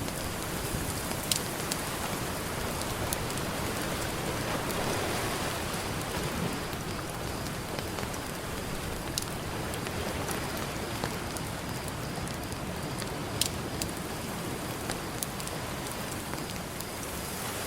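Campfire crackling, with scattered sharp pops, over a steady wash of ocean surf that swells once about five seconds in.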